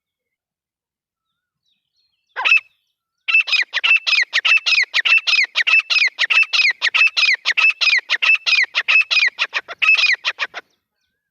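Grey francolin calling: after about two seconds of silence, one short note, then a fast run of repeated harsh notes for about seven seconds, with a downward-sliding note recurring every half second or so.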